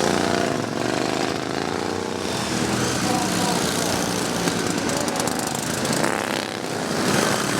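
Small-engine racing lawn mowers running at high revs, several engines overlapping, their pitch rising and falling as they rev and pass.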